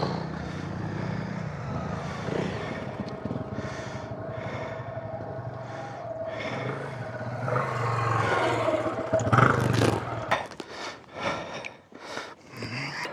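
Off-road trail motorcycle engine running at idle, with scraping and a run of sharp knocks and clatter near the end.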